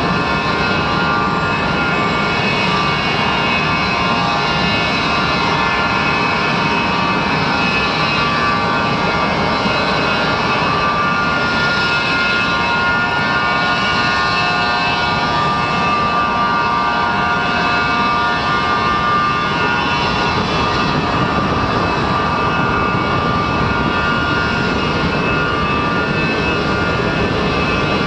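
Gulfstream IV's Rolls-Royce Tay turbofan engine running steadily during a ground engine test: a loud, even roar with a whine of several steady high tones over it.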